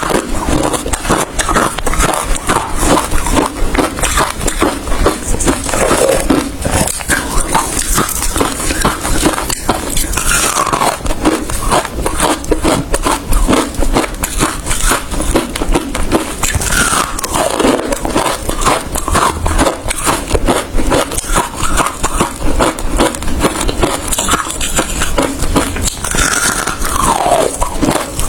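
Close-miked chewing of hard ice: dense, rapid crunching and crackling with no let-up, with a short falling squeak now and then.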